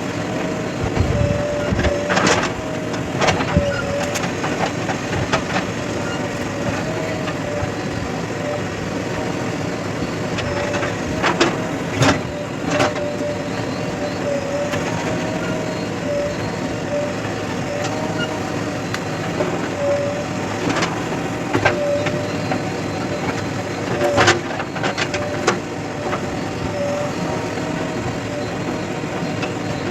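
Diesel engines of a backhoe loader and tractors running steadily, with a wavering whine and occasional short knocks and clunks.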